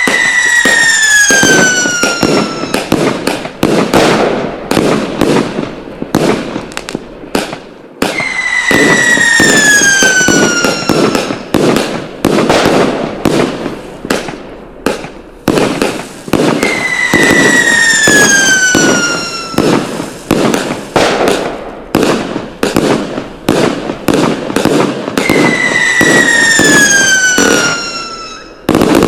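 Fireworks: a falling whistle lasting about two and a half seconds, then a rapid crackling run of firecracker bangs. The same pattern comes four times, about every eight seconds.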